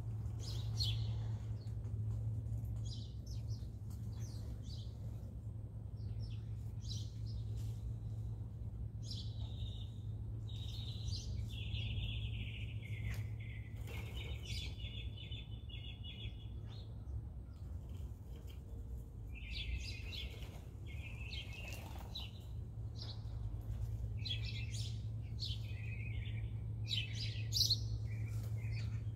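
Birds chirping and calling, with short calls scattered throughout, a longer scratchy call in the middle and a busier flurry of calls near the end, over a steady low hum.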